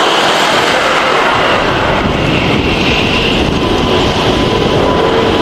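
Jet engines of a Singapore Airlines Airbus A350-900 (Rolls-Royce Trent XWB) running at close range: a loud, steady roar with a high whine over it, and a faint steady tone joining partway through.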